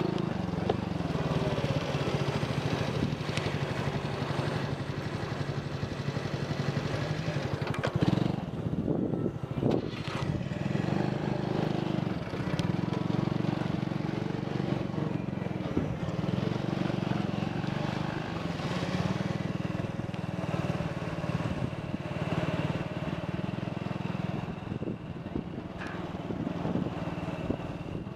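Motorcycle engine running as the bike is ridden at low speed, its pitch rising and falling several times with the throttle and gear changes.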